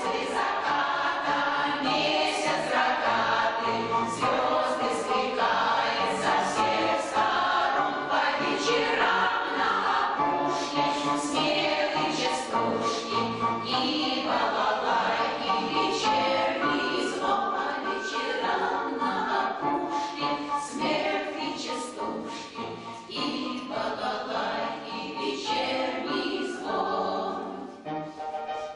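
Amateur choir of older singers performing a song, many voices together over steady accompaniment, with sharp percussive clicks throughout; the singing tails off near the end.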